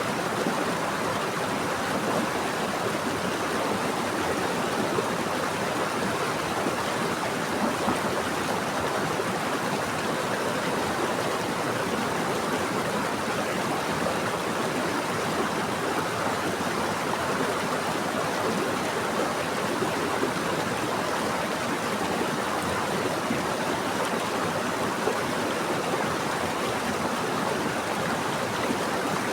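Steady flowing water: a stream or small river rushing and splashing continuously, with no change in level.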